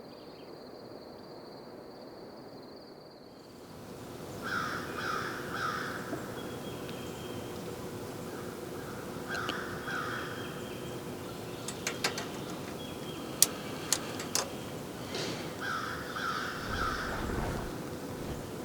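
A crow cawing in sets of three, three times over, with a few sharp clicks between the second and third sets.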